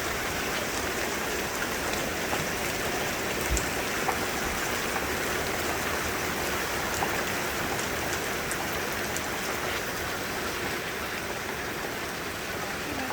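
Heavy rain pouring down steadily, with a few single drops striking louder close by.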